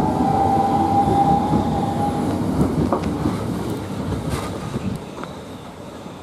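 Southeastern Class 395 Javelin electric multiple unit pulling away from the platform: wheels rumbling over the rails with a steady electric whine for the first two seconds, the whole sound fading as the train moves off.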